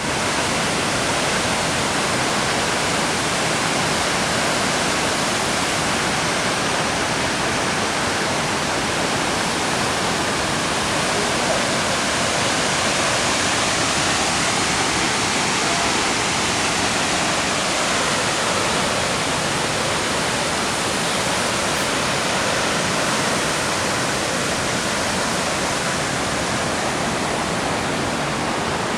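Shōmyō Falls, a very tall plunging waterfall, with a steady, unbroken rush of falling water.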